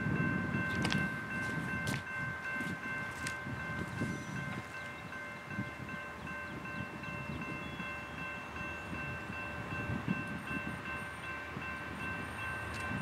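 A train rolling past: a low rumble with a steady, high-pitched ringing tone held over it, and a few sharp clicks in the first few seconds.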